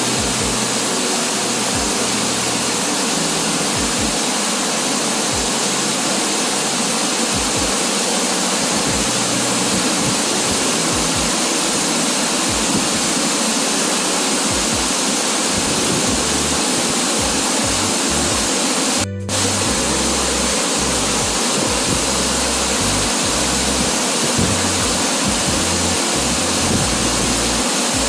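Waterfall: a steady, loud rush of falling water, broken by a short dropout about nineteen seconds in.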